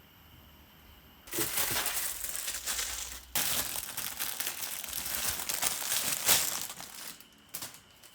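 Crinkling, rustling noise of something being handled, in two long stretches with a short break about two seconds in, then a sharp click near the end.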